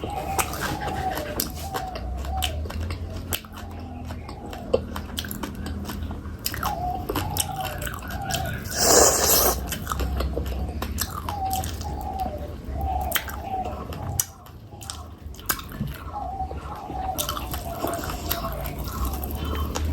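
Close-miked wet chewing and mouth sounds of someone eating fish curry with rice: rhythmic squelchy chews with small clicks. One louder, harsher noise about nine seconds in.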